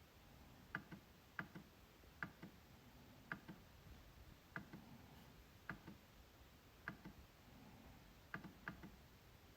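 MacBook trackpad being clicked: short, sharp clicks about once a second at an uneven pace, some coming in quick pairs.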